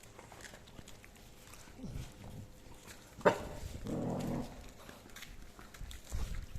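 A dog gnawing a bone, with a sharp crack about three seconds in, followed by a short low growl.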